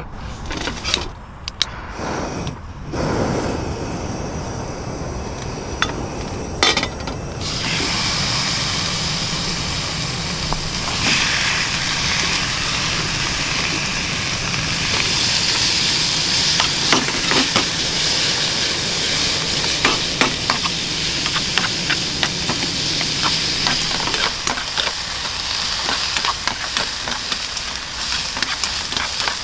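A few knocks and handling clicks. About seven seconds in, a steady sizzle starts as a chadolbaegi (thin-sliced beef brisket) and bean-sprout stir-fry fries loudly in a hot pan, with the frequent taps and scrapes of a utensil stirring it.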